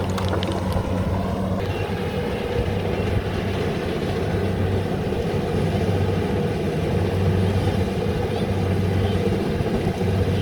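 An engine running steadily at an even pitch, with a few light clicks or rattles in the first second.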